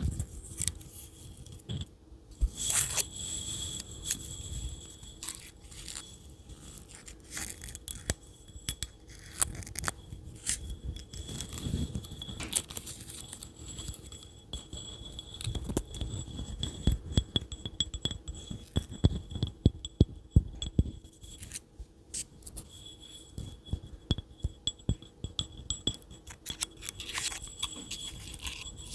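Close-up ASMR tapping and scratching on objects: quick, irregular taps and scrapes, in places several taps in rapid clusters.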